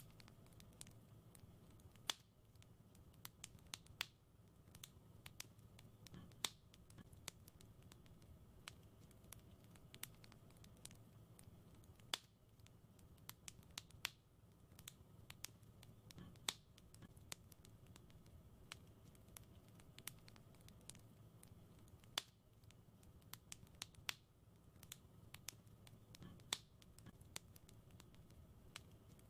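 Wood fire in a fireplace crackling quietly: a steady scatter of small ticks, with a sharper pop every couple of seconds, over a soft low rumble.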